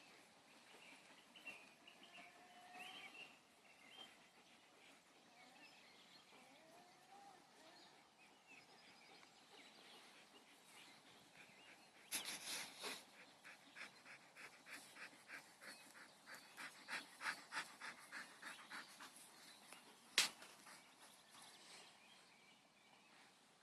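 Quiet outdoor ambience with faint bird calls early on, then a run of regular crunching sounds, about three a second, for several seconds, and one sharp click later.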